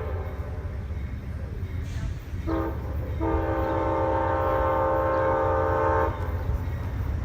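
Train horn, a chord of several steady tones, giving a short blast and then a long one of about three seconds over the low rumble of the train.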